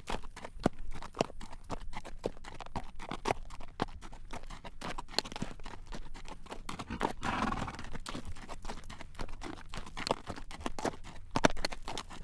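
A horse's hooves clip-clopping on a road at a walk as it draws a carriage, a quick run of sharp strikes. A short breathy noise comes about seven seconds in.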